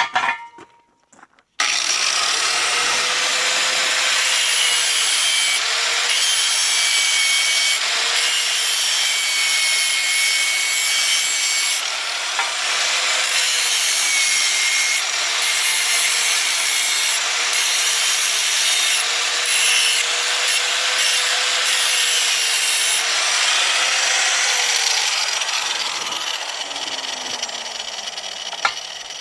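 Electric grinder grinding down a metal link-arm part, its motor pitch dipping and recovering each time it is pressed into the work. It starts up a moment in, and near the end it is lifted off and winds down with a falling whine.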